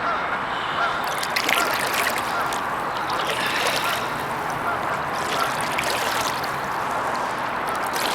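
Water trickling and splashing from a kayak paddle, in short spells every second or two, over a steady rushing background noise.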